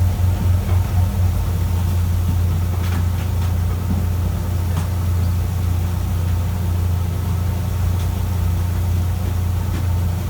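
A fishing boat's engine running steadily with a deep, low hum. Its beat pulses for about the first second, then evens out, with a few faint clicks over it.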